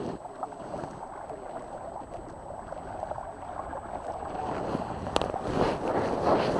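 Water splashing and lapping against a small sailing dinghy's hull as it moves, growing louder in the last couple of seconds, with a few light knocks.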